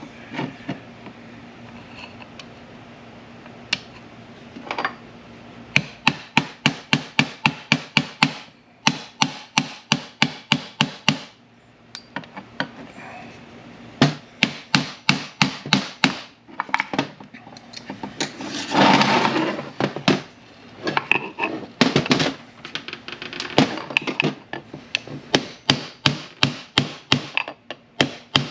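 Runs of rapid hammer taps, about four a second, driving a shift rail into a manual transmission shift tower, with pauses between the runs and a brief scraping rub about two-thirds of the way through.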